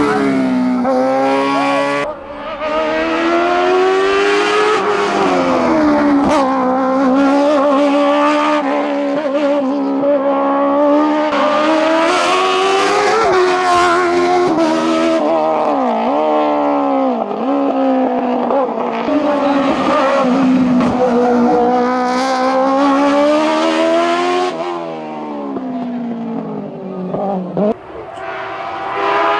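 Hillclimb race car's engine pulling hard at high revs, the pitch climbing through each gear and dropping sharply at each shift or lift, over and over. It fades for a few seconds near the end, then comes back loud.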